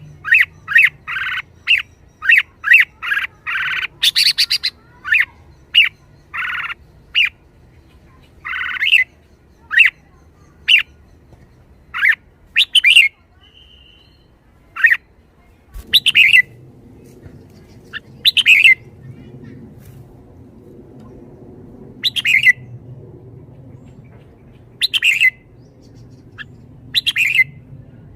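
Red-whiskered bulbul calling with short, sharp chattering notes. A quick run of about two calls a second over the first several seconds slows to single calls every couple of seconds.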